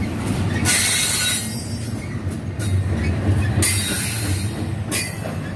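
Double-stack intermodal well cars rolling past at close range: a steady rumble of steel wheels on the rails, with a few louder bursts of clatter and hiss as the cars go by.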